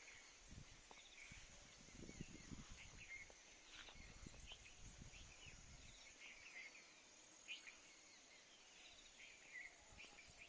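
Faint outdoor morning ambience: scattered short bird chirps with a steady, high insect drone underneath. Soft wind rumble on the microphone comes and goes during the first half.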